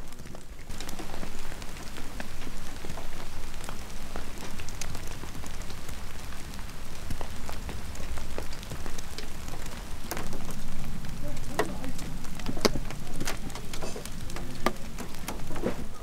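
Rain mixed with wet snow pattering on surfaces: a steady hiss with many separate drop ticks, which come more thickly in the last few seconds.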